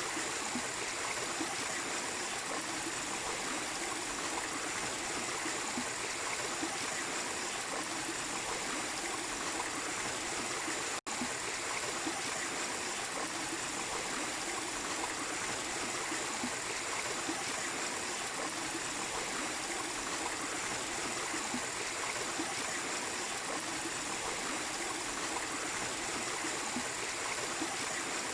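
Small waterfall and stream water rushing and splashing steadily, with a split-second dropout about eleven seconds in.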